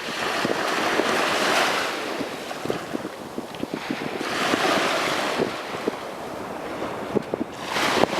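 Sea waves breaking and washing up the beach in three surges, about a second in, about four seconds in and again just before the end, with a crackling fizz between them.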